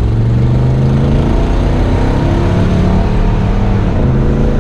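1968 Buick Wildcat's 430 cubic-inch V8 running under way, its engine note shifting up and down in pitch as it accelerates and eases off.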